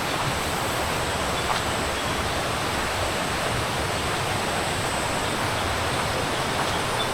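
River water flowing over rocks and small cascades, a steady even rush.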